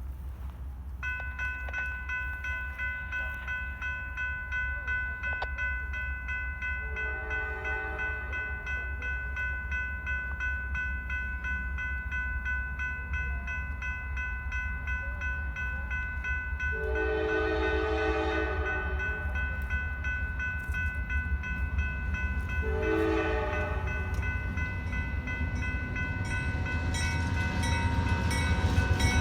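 A General Signals Type 3 electronic crossing bell starts ringing steadily about a second in. An approaching Norfolk Southern GE AC44C6M locomotive, NS 4692, sounds its horn in the grade-crossing pattern: a long blast, a second long blast, a short one, and a final long blast that begins near the end. Under it all, the train's low rumble grows louder as it comes closer.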